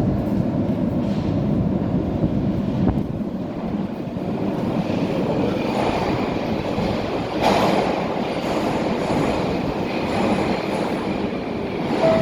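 Metro train running through the station, with a continuous rumble of wheels on rails and some wheel squeal, swelling briefly about seven and a half seconds in.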